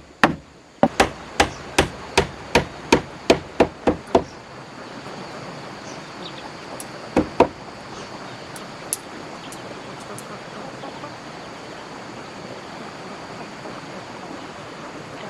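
A tool striking wood in a quick, even series of about a dozen blows, roughly three a second, stopping about four seconds in. Two more knocks follow a few seconds later over a steady hiss.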